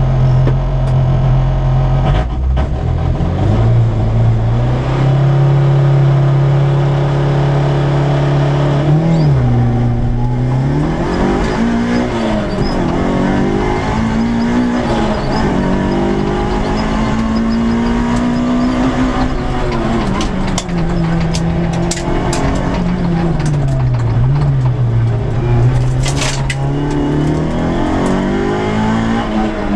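Peugeot 106 S16 rally car's 1.6-litre sixteen-valve four-cylinder engine heard from inside the cabin on a rally stage, revved hard through the gears, its pitch climbing and dropping again and again with each shift and lift. A few sharp knocks come near the end.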